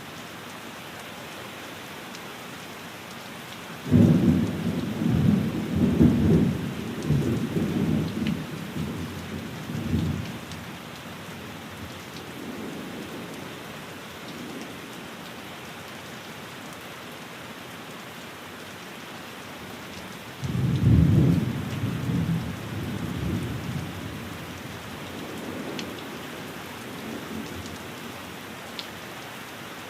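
Steady rain falling on a window, with two rolls of thunder: the first breaks about four seconds in and rumbles on for several seconds, the second about twenty seconds in, both fading out slowly.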